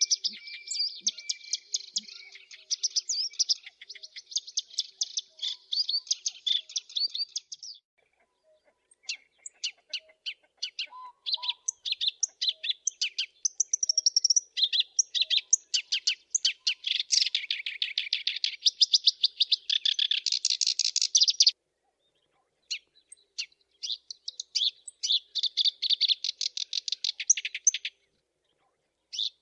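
Black-browed reed warbler singing: a fast, dense chatter of scratchy, repeated notes in long bouts, breaking off briefly about eight, twenty-one and twenty-eight seconds in.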